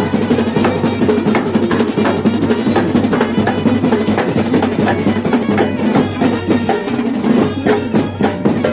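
A Kerala temple-festival percussion ensemble of chenda drums playing a fast, continuous melam, a dense roll of rapid strikes with no let-up.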